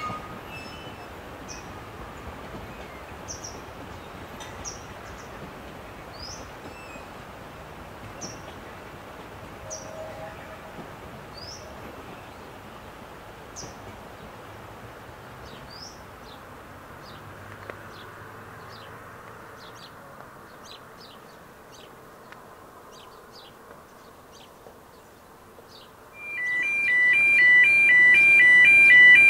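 Small birds calling with short high chirps about once a second, turning into a quicker run of ticks partway through, over the steady rush of a river. About 26 seconds in, music starts suddenly and much louder.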